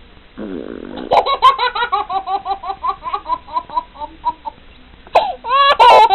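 A young child laughing in a long run of rapid, high-pitched laughs, about five a second, after a brief noise at the start, and breaking into two loud squeals near the end.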